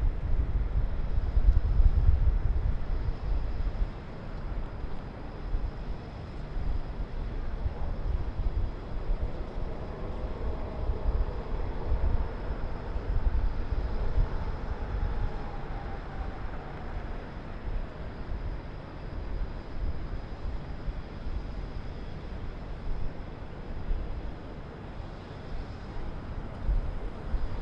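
Distant city traffic hum heard from high above, with low gusty rumble, strongest in the first few seconds. A faint, wavering pitched sound drifts in about eight seconds in and fades out a few seconds past the middle.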